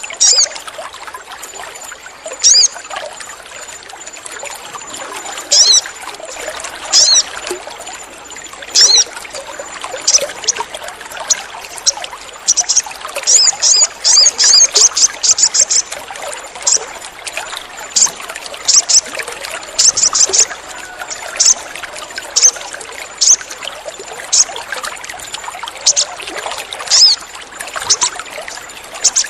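Sogon bird calling: short, sharp, high chirps, single or in pairs every second or two, with a fast run of rapid chirps about halfway through. Under them runs a steady trickling, water-like noise.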